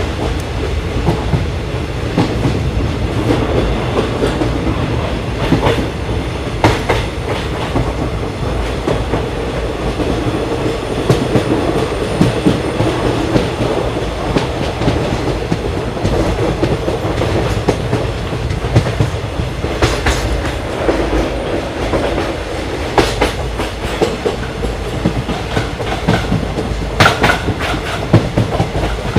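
Express passenger train running at speed, heard from on board: a steady rumble with wheels clicking over rail joints. There are sharper knocks now and then, in a cluster near the end.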